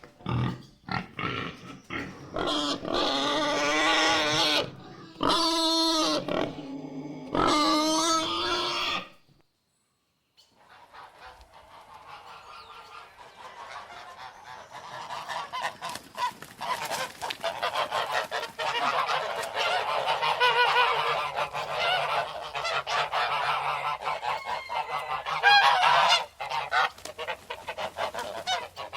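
Animal calls: loud, pitched calls one after another for about nine seconds, then a brief silence, then many animals calling at once in a dense, continuous chorus.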